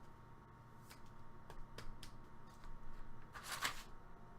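Faint handling of trading cards: a few light clicks, then a brief rustle about three and a half seconds in.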